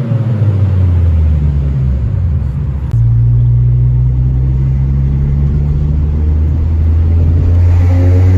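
Toyota Celica ZZT231's 2ZZ-GE four-cylinder engine through a one-off exhaust, an HKS Silent Hi-Power with its silencer drum cut out. The revs fall at first, then settle into a steady low drone that steps up in loudness about three seconds in, and the engine begins to rev up again near the end.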